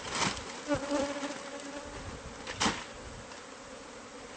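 Honeybees buzzing in numbers around a hive opened up for removal, with a brief closer hum of a single bee passing. Two sharp knocks sound, one right at the start and one a little past halfway.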